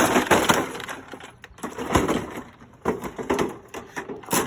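Dishwasher's cut metal and plastic parts being pulled and broken apart by hand: irregular cracking and crunching, loudest at the start and again about two seconds in.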